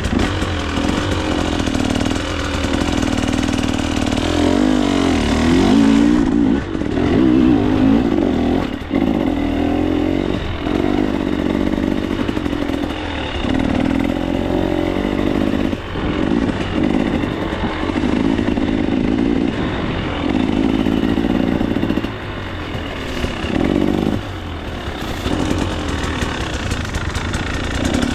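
2024 KTM 300 XC-W two-stroke dirt bike engine revving up and down under changing throttle, its pitch climbing and dropping again every second or two with brief dips where the throttle closes.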